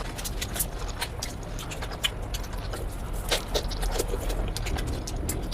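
Close-miked eating sounds of someone eating biryani: irregular short wet clicks and smacks of mouth and food, over a low steady hum.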